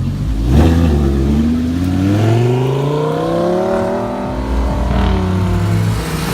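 A car engine accelerating, its pitch rising steadily for about three seconds, then holding before it falls away near the end.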